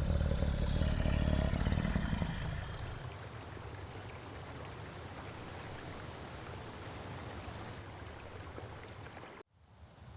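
Steady rushing of river water. A loud low rumble in the first two seconds or so fades away, leaving the water alone, and the sound cuts out suddenly to silence near the end.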